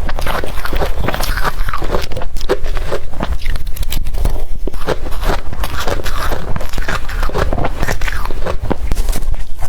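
Close-up crunching of blender-crushed ice being bitten and chewed, a dense run of crackling bites with no pause.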